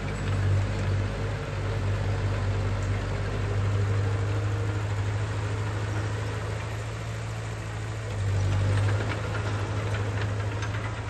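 Heavy earthmoving machine's engine running steadily, with a rattle of metal over its low hum, briefly louder about eight seconds in.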